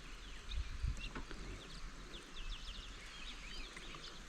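Birds chirping and calling in the background, many short high notes overlapping. A couple of low thumps come at about half a second to a second in.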